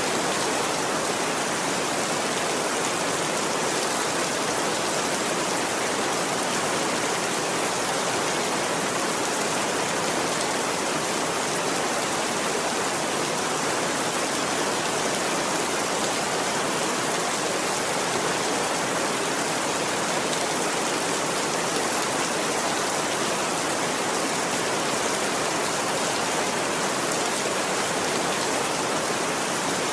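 Steady rain falling: a dense, even hiss with no breaks or changes.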